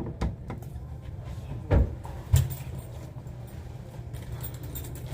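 Steady low rumble of a moving vehicle heard from inside it, with two dull thumps about two seconds in and a few light clicks of handling.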